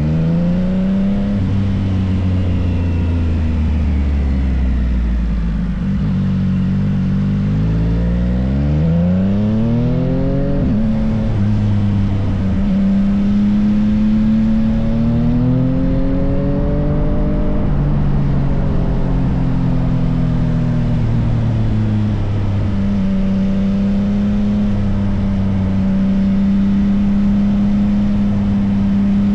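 Yamaha XSR900's inline-three engine running through an M4 full exhaust system, its revs rising and falling. There is a steep climb in pitch about ten seconds in, and the pitch holds steady for the last several seconds.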